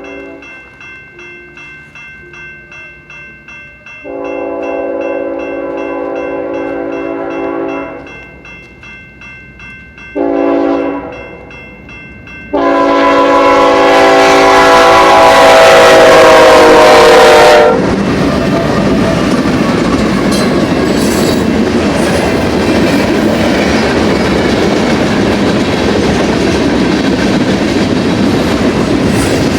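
BNSF freight locomotive's multi-note air horn sounding the end of one blast, then long, short and a final long, loudest blast, whose pitch drops as the locomotive passes: the long-long-short-long grade-crossing signal. Then the locomotives and freight cars roll by with steady wheel and rail noise and clickety-clack.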